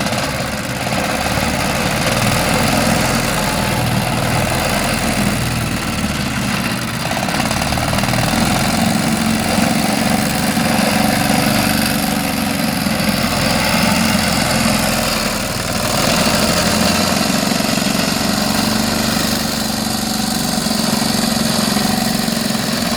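Tugboat engine running steadily under load as it pulls a large log through the water.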